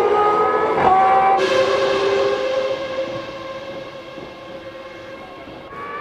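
Formula One car engines at high revs. A high engine note drops in pitch about a second in, then a car with a hiss fades away over several seconds, and another engine note rises near the end.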